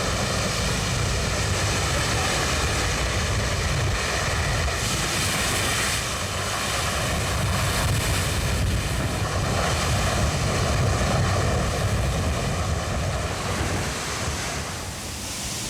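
Steady rushing noise of wind and sea, with a faint steady engine tone underneath.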